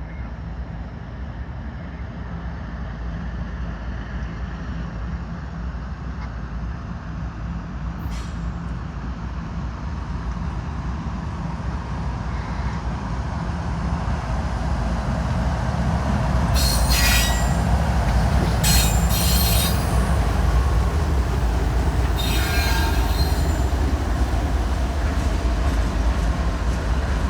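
Two CSX diesel-electric locomotives running light engine, their diesel drone building steadily as they draw near and then holding loud. From about two-thirds of the way in comes high-pitched wheel squeal, in short bouts.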